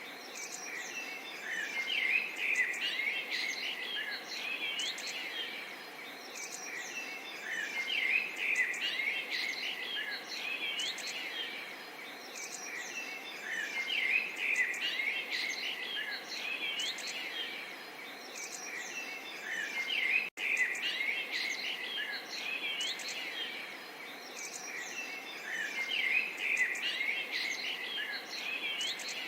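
Small songbirds chirping and twittering together, swelling in busy bursts about every six seconds over a faint steady background hiss. The sound drops out for an instant about twenty seconds in.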